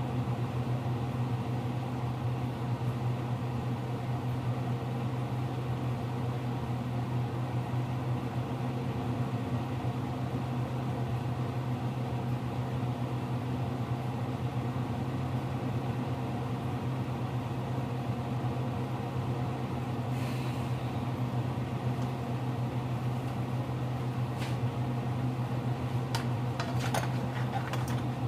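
Steady mechanical hum, unchanging throughout, with a few light clicks near the end.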